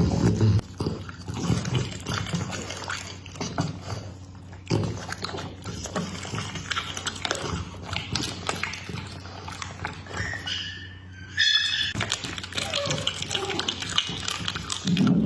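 Pit bull chewing and gulping its food, wet smacking and crunching in irregular bites.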